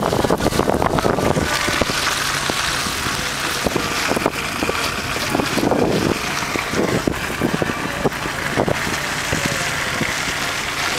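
Vehicle driving through a snowstorm: a steady low engine hum under a continuous hiss of tyres and wind, with scattered small knocks and bumps.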